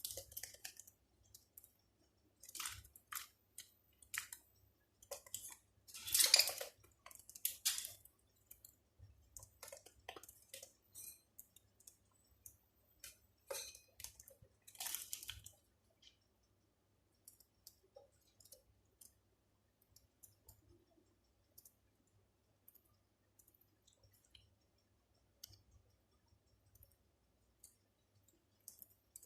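Birds pecking at and eating food: small clicks and crunches of beaks on the food. The clicks come in clusters through the first half, then thin out to faint scattered ticks.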